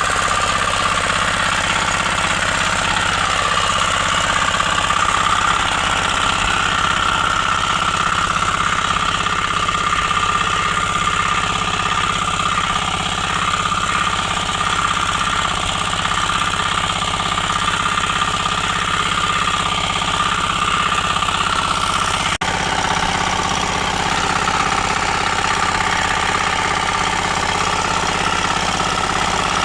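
Small single-cylinder engine of a 9.5 hp power weeder running steadily with a hard, knocking beat, broken by a brief dropout about two-thirds of the way through.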